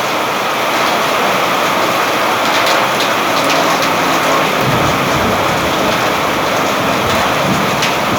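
Steady rain falling, with a low rumble coming in about halfway through and continuing to the end.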